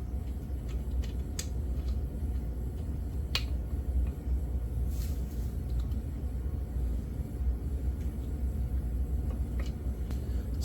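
A few light, sharp metallic clicks from parts of a crank puller being handled and fitted, over a steady low hum.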